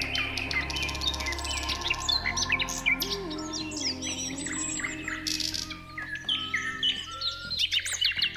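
Several small birds chirping and twittering in quick, overlapping calls, over soft background music.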